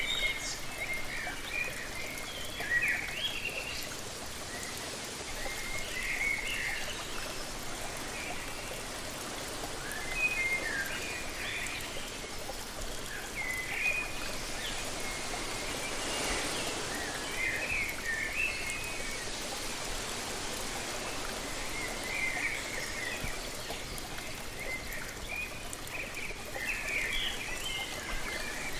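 Steady rush of falling water, with a bird singing short chirping phrases every three to four seconds over it. The rushing swells briefly about halfway through.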